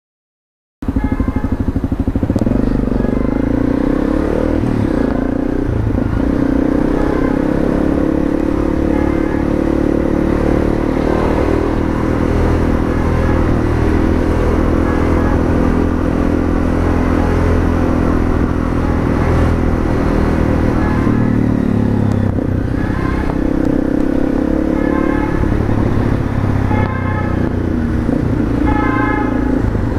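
Honda CRF250M supermoto's single-cylinder four-stroke engine, heard from on board, starting suddenly about a second in and running through town riding with the revs rising and falling. Near the end a repeating pulsed tone sounds over the engine.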